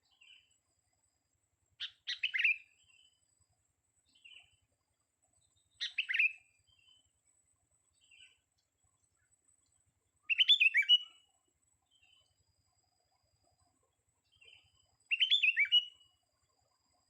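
Young sooty-headed bulbul (kutilang) singing: four short, bubbly warbled phrases about four seconds apart, with soft single chirps in between.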